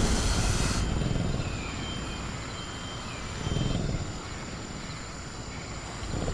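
Sound-designed growls of a caged velociraptor creature. A loud rough noise cuts off about a second in, then low rumbling swells come near the middle and again near the end. Underneath is a night jungle ambience with a steady high insect drone and a few faint bird chirps.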